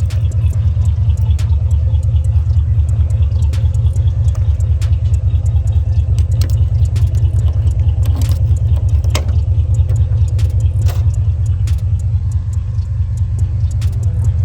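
Car engine idling with a steady low rumble, with scattered light clicks over it.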